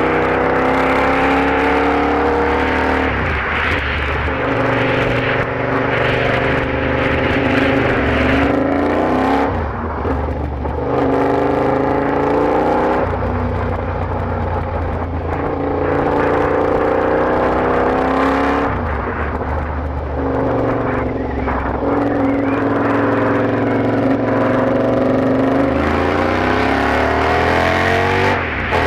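KTM 1190 R's V-twin breathing through a Bursig exhaust tip with no sound deadening, accelerating hard. The engine note rises in pitch, then drops and climbs again at each shift or roll-off, about half a dozen times.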